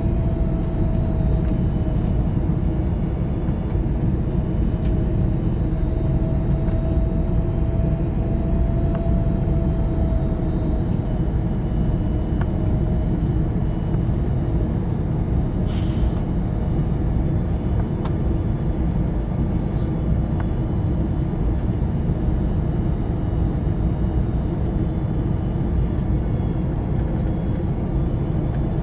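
Steady cabin rumble of an Airbus A321neo, its Pratt & Whitney geared turbofans and airflow heard from inside, with a faint steady whine that fades out about halfway and a couple of faint clicks.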